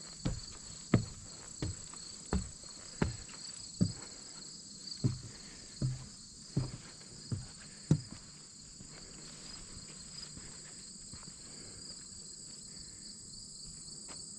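Footsteps: about eleven heavy, evenly paced steps that stop about eight seconds in. Under them is a steady, high-pitched insect chorus that goes on throughout.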